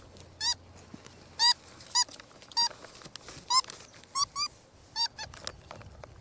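Cinnamon capuchin monkeys giving a string of about ten short, high squeaky calls, each arching up and down in pitch.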